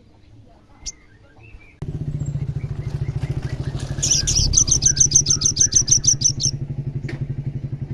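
An olive-backed sunbird gives a fast rattling trill of rapidly repeated high notes, lasting about two and a half seconds, roughly in the middle. Under it an engine runs with a steady low pulsing from about two seconds in, the loudest sound throughout.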